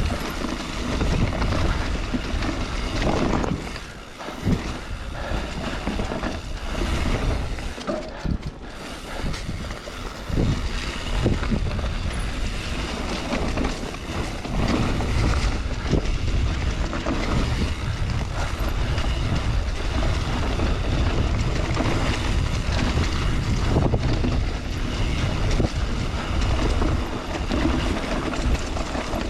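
Mountain bike being ridden along a dirt trail: wind buffeting the microphone and tyres rumbling over the ground, with scattered knocks and rattles from the bike.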